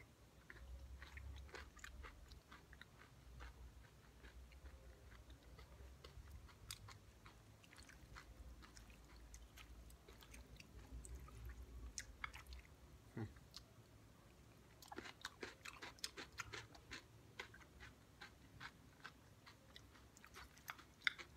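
Quiet, close chewing and crunching of a mouthful of shopska salad: crisp raw cucumber, tomato and onion with goat cheese. The crunching grows denser about fifteen seconds in.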